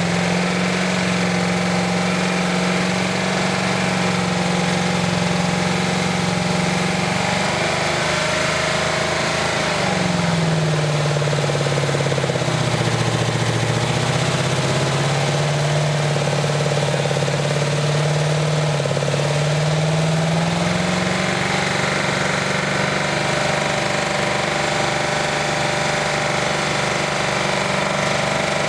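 Truck engine with silicone added to its oil, running hard and steady under a test meant to kill it. About ten seconds in its pitch sags, and about ten seconds later it climbs back to its earlier speed.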